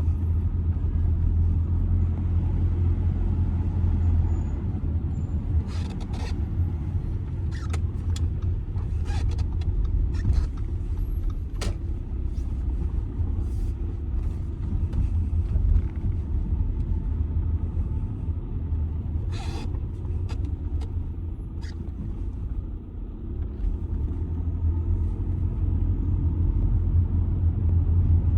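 2007 Audi A6 2.0 TDI four-cylinder diesel under way: a steady low engine and road rumble, with a few short light knocks or clicks from the road scattered through it.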